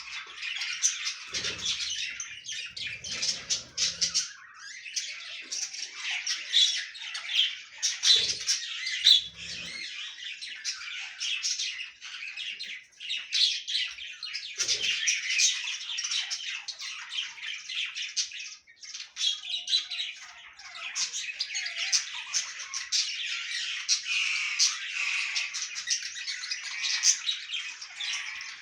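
A flock of budgerigars chattering continuously, many birds warbling, chirping and squawking over one another. A few short low thumps come in among the calls.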